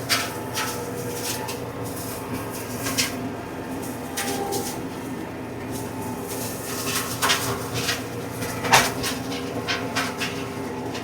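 Compact diesel tractor running steadily with a PTO-driven flail mower, with irregular sharp cracks and snaps as the flail knives hit and shred brush.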